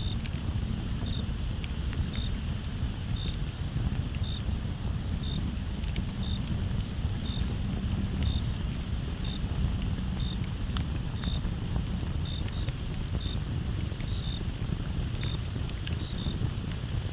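Campfire crackling, with scattered sharp pops over a steady low rumble of burning wood. Crickets sound behind it: a steady high trill, plus one cricket chirping regularly about once a second.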